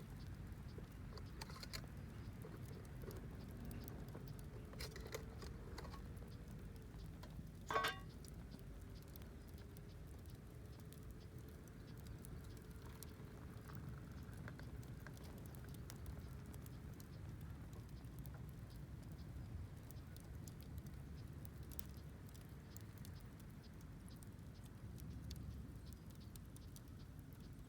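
Wood fire crackling: scattered small pops and ticks over a low steady rumble, with one louder crackle about eight seconds in.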